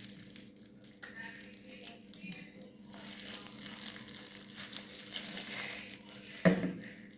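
Crinkling and rustling of hair-dye kit packaging being handled, with one louder knock about six and a half seconds in.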